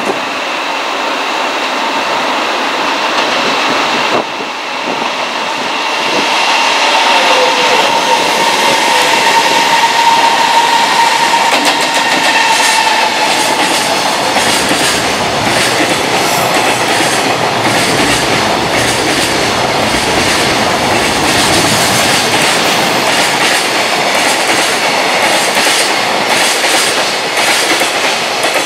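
JR Freight EF210 electric locomotive hauling a container freight train through a station at speed, with a steady whine that fades by about halfway through. After that the container wagons rattle past, their wheels clacking over the rail joints in an even rhythm.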